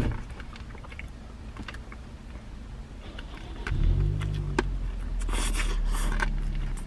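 A bite into a crispy fried chicken sandwich, then crunchy chewing with crackly bursts, the coating described as super crunchy. A low steady hum comes in about four seconds in and runs under the chewing.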